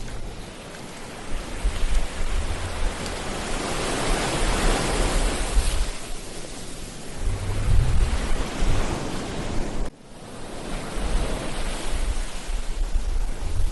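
Ocean surf washing on a beach, swelling to a peak in the middle, with wind gusting on the microphone in low rumbles. The sound drops out sharply for a moment about ten seconds in.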